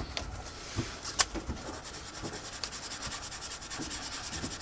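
Paintbrush bristles scrubbing quickly back and forth, about ten short strokes a second, picking up pigment ink. A single sharp click comes about a second in.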